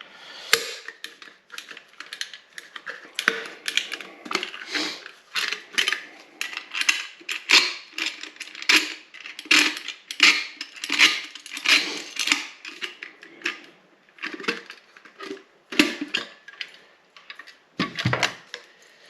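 Caulking gun worked stroke after stroke on a nearly empty sealant cartridge, about two clicks a second, to squeeze out the last of the sealant. The clicks thin out near the end.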